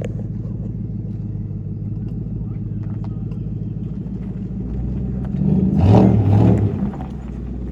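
Car engine running steadily, then revving up briefly and loudly about five and a half seconds in before settling back.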